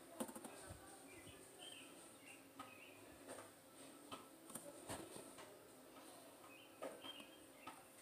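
A few faint, short chirps from a baby bird, with soft clicks from the plastic syringe and box being handled.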